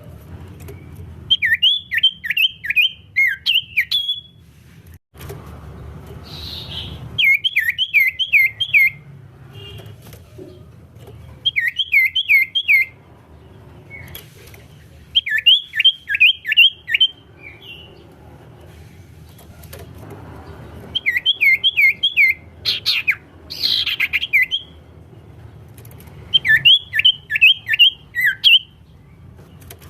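Common iora singing: six bursts of quick, downward-slurred whistled chirps, each lasting a second or two, repeated every few seconds.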